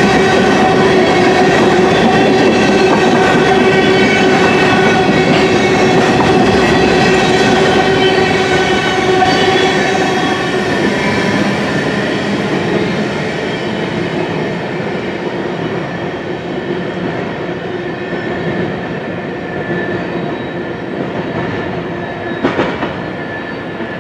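Covered hopper cars of a freight train rolling past on the rails, a steady rumble with several steady tones ringing above it. The last car goes by about halfway through and the sound fades as the train moves away. There is a short sharp knock near the end.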